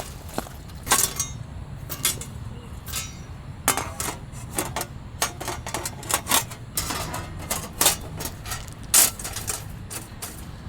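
Dry twigs and small branches being handled and snapped, giving a run of irregular sharp cracks and clicks.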